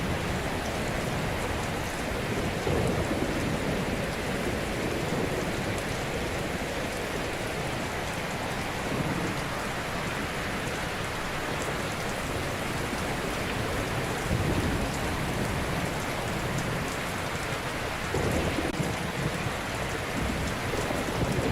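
Ocean waves breaking gently and washing on a shore: a steady rushing with a deep rumble underneath, swelling a little every few seconds as each wave comes in.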